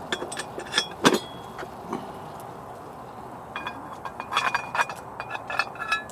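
Light metallic clinks and taps of cookware being handled, in two clusters: a few about a second in, then a busier run from about three and a half seconds to near the end.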